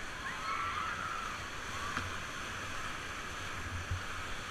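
River rapids rushing: a steady wash of whitewater noise with no break.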